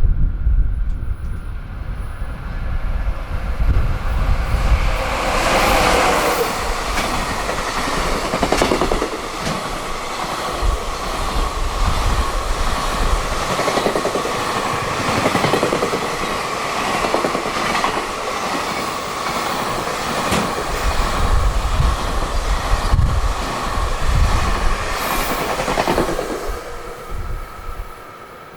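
Freight train passing at speed: its wheels clack rhythmically over the rail joints, with a steady ringing tone, wagon after wagon. It builds up about five seconds in and dies away near the end. Wind buffets the microphone at the start.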